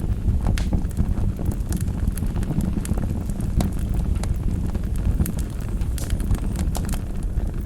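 Wood fire burning in a fireplace: a steady low roar of flames with irregular sharp crackles and pops.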